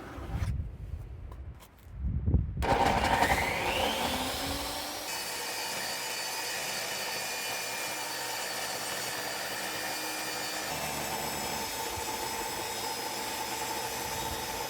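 A few thumps, then the Ridgid R4518 table saw's 15-amp motor switches on about two and a half seconds in. It winds up over a couple of seconds in a rising whine, as its soft-start brings the blade up to speed, then runs steadily at full speed.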